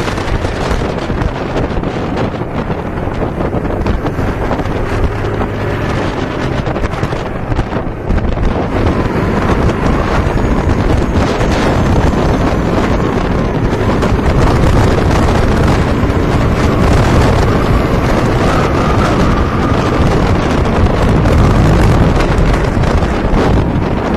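Loud, steady wind noise rumbling on the built-in microphone of an SJCAM SJ8 Air action camera used without its protective waterproof case.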